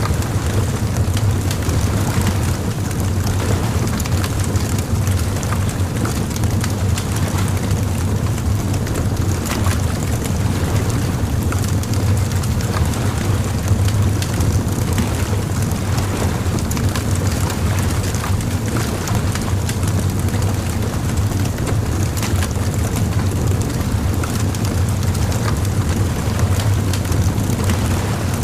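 Bonfire crackling with many small scattered pops, over a steady low rumble.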